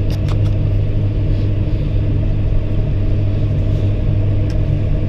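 Diesel engine of a John Deere 6110R tractor running steadily with a constant low drone while it powers a snow blower.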